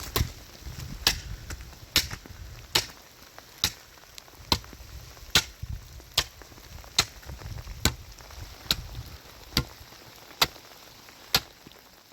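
A hand tool striking in a steady chopping rhythm, a little under one stroke a second, about fourteen sharp blows in all.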